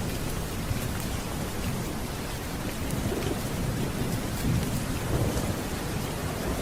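Steady heavy rain with thunder rumbling low underneath, swelling about halfway through and again near the end.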